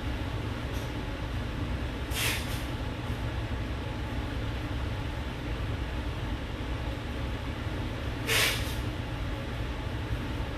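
A steady low background hum, with two short hissing swishes, one about two seconds in and a louder one about eight seconds in.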